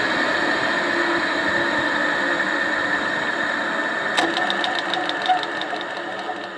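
A large single-phase electric motor running down after switch-off, its noise slowly fading. About four seconds in, a sharp clunk as its centrifugal switch is pulled back in, followed by a quick run of light ticks that slows as the rotor coasts.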